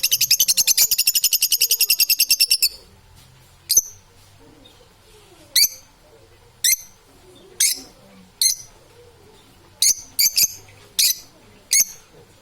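Parrot calling: a fast, high chattering trill for the first few seconds, then a string of short, sharp chirps about a second apart.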